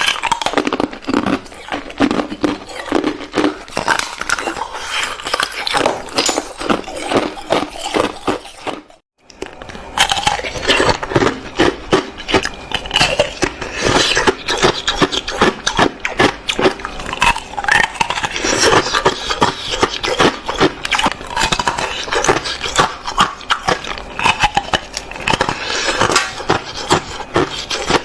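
Close-miked crunching and chewing of ice with juice frozen inside: a dense run of crackling crunches, broken by a brief silence about nine seconds in.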